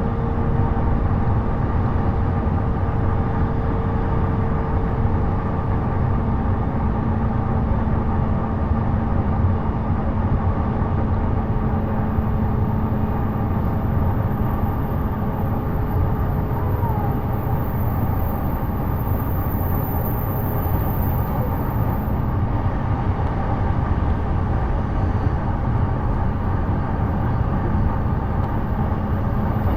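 Onboard running noise of a JR East E233-series electric train moving along the line: a steady rumble of wheels on rail, with faint steady hums in it.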